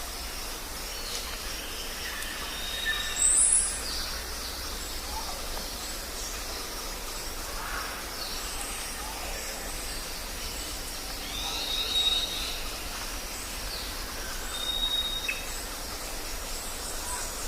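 Tropical forest ambience: scattered bird calls and thin whistled notes over a steady background hiss, the loudest a short, high call about three seconds in.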